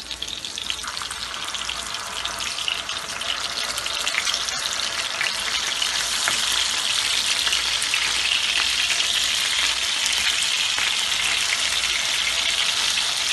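Minced-beef galawati kababs shallow-frying in a little oil over medium-low heat: a steady crackling sizzle that grows louder over the first few seconds and then holds even.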